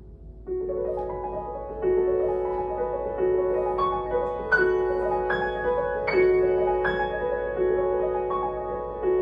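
Solo piano playing a slow, lyrical passage. It is soft for the first half second, then a louder phrase comes in, with single notes struck about every two-thirds of a second and left to ring over one another.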